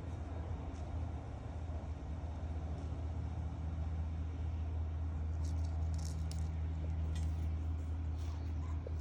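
A steady low mechanical hum, like an idling engine or motor, with faint short high-pitched ticks in the last few seconds.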